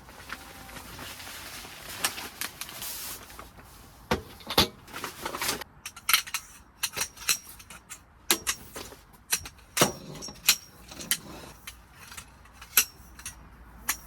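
Rustling at first, then a run of sharp clicks and clinks of gear being handled, several with a short metallic ring.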